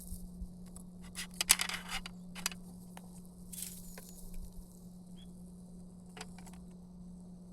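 Light clinks and a short scrape about a second and a half in, then a few single clicks, over a faint steady low hum: camp cookware and utensils being handled.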